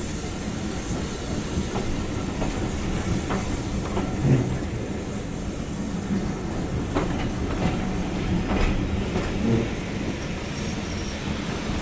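Train running on the rails: a steady low rumble with irregular wheel clicks and knocks over the track.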